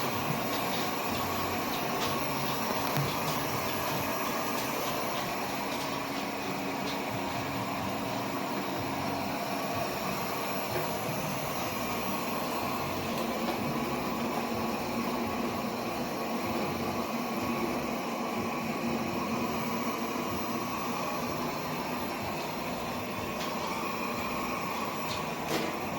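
Airzeen R7 robot vacuum running steadily, with a couple of light clicks near the end.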